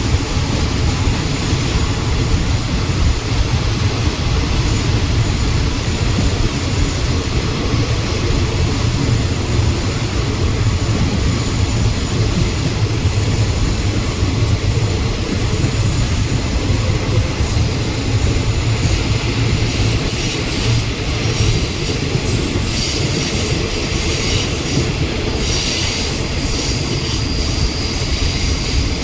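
Passenger train running at speed, heard from inside a carriage: a steady low rumble of wheels on rail. About two-thirds of the way through, a higher-pitched metallic wheel squeal comes in.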